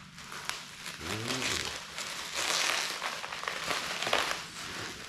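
Bubble wrap and plastic packaging crinkling and rustling in irregular handfuls as parts are unwrapped by hand.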